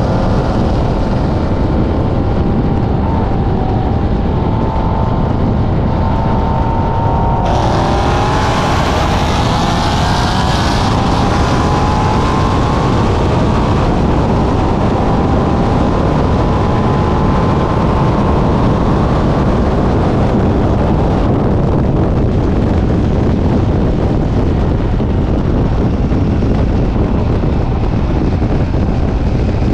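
Car engine under hard acceleration over loud, steady wind and road noise. About a quarter of the way in the engine note climbs steadily for several seconds as the car pulls, then levels off.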